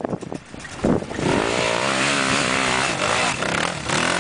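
Off-road motorcycle engine running hard, its pitch rising and falling as the throttle is worked, coming in loudly about a second in.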